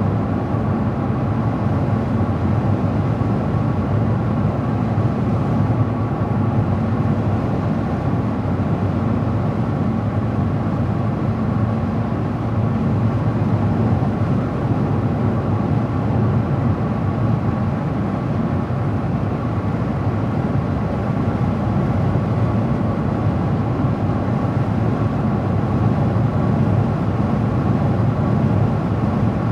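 Steady driving noise of a car on the road: an even low drone of tyres and engine, with a faint steady whine above it.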